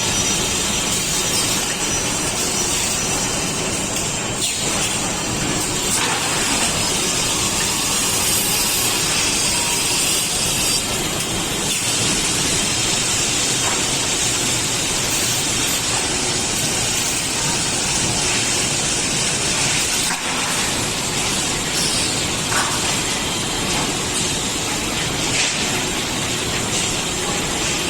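Automatic plywood glue spreader production line running: steady, dense machine noise with a strong hiss and a few faint knocks.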